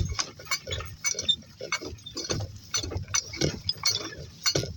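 Donkeys walking: an irregular run of hoof steps, with light metallic clinks from their harness.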